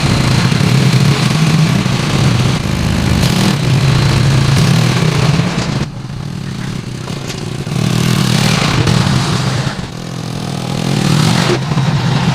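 Engine of a three-wheeled motorbike running, with the throttle eased off twice, about six and ten seconds in, and opened up again.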